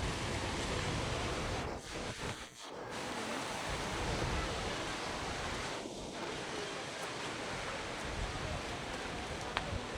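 Steady rushing of river water, an even noise with no distinct events.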